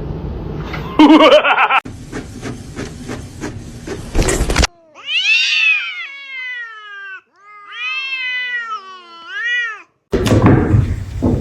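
A cat meowing in three long, drawn-out calls, each rising and then falling in pitch. Before them come a stretch of rustling noise and clicks.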